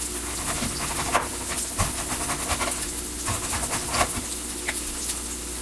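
Kitchen knife slicing an onion into thin rings on a cutting board, a sharp knock every half second to a second, over the steady sizzle of breaded milanesa frying in a pan.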